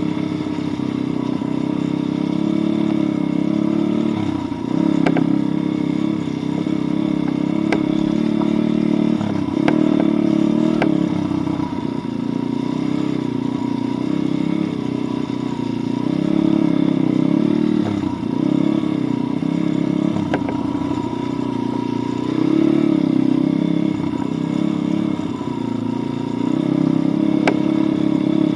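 Pit bike's single-cylinder four-stroke engine running under load, its revs rising and falling with the throttle and dropping off briefly every few seconds. Occasional sharp clicks and knocks come through over the engine.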